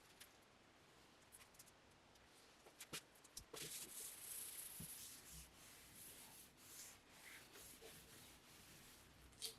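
Faint rubbing and scraping with a few light clicks and knocks, quiet for the first few seconds.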